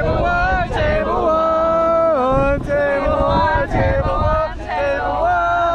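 A voice singing long held notes that slide up and down between them, over the low rumble of the moving farm truck and wind on the microphone.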